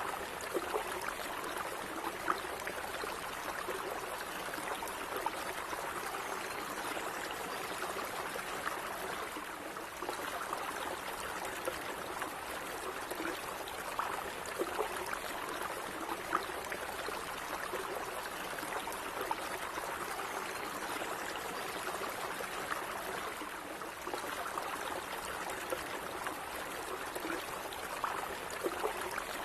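A gently running stream, water trickling and burbling steadily over stones, with small splashes here and there.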